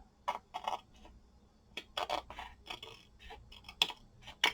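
Scissors snipping in a series of short, irregular cuts, trimming napkin paper from the edge of a tag; the sharpest snip comes near the end.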